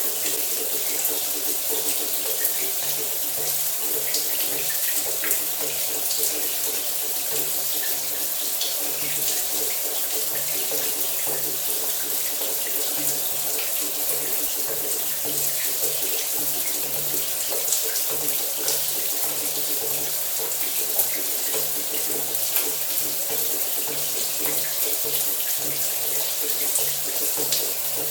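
Shower running steadily, a continuous spray of water splashing down with fine crackling flecks.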